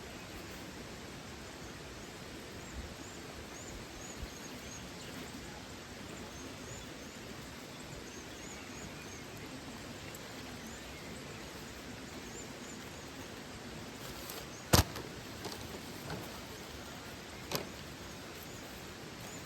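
Steady rush of a forest waterfall, with faint high chirping over it. A sharp click or crack about 15 seconds in, the loudest sound, and another about two and a half seconds later.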